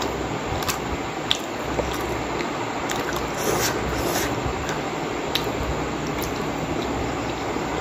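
Wet chewing and mouth sounds of someone eating soft steamed pork dumplings (momo): scattered short squishy smacks and clicks over a steady background hiss.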